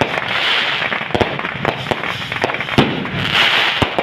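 Fireworks going off: a rapid, irregular string of sharp bangs and crackles, with two swells of hissing, one about half a second in and one near the end.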